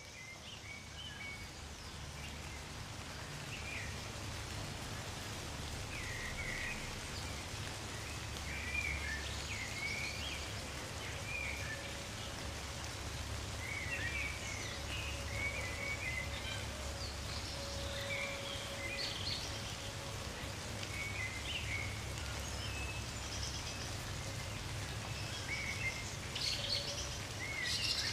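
Gentle rain falling steadily, with small birds chirping and calling on and off throughout. There is a low rumble underneath, and the whole fades in over the first few seconds.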